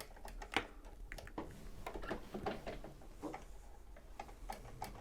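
Irregular light clicks and taps from hands working at a Janome MyExcel 23X sewing machine as the bobbin thread is drawn up and handled, about one or two sharp ticks a second.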